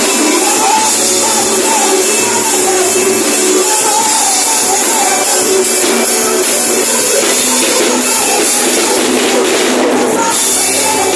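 A worship band playing loud, steady music, with percussion and a wavering melody line.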